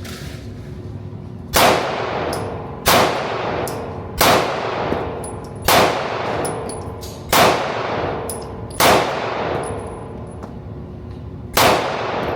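Seven handgun shots fired one at a time at an uneven pace, roughly one every one and a half seconds with a longer gap before the last, each followed by a ringing tail. Faint light metallic clinks sound between some of the shots.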